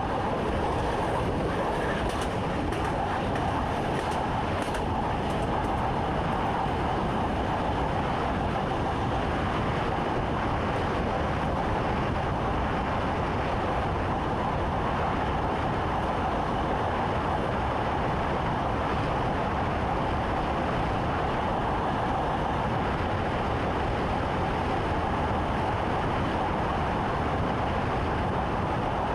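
Train running along the track, heard from inside the driver's cab: a steady rumble of wheels and running gear with a constant mid-pitched hum.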